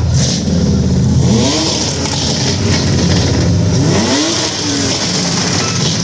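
A car engine running loudly and being revved twice, about a second in and again about four seconds in, each rev climbing and falling back to idle.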